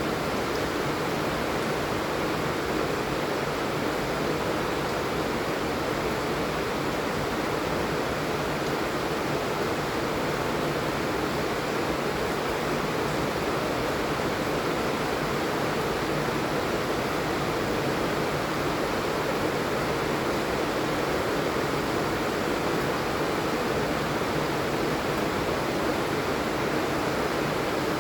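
Heavy rain falling steadily, an even rushing hiss with no separate drops or other events standing out.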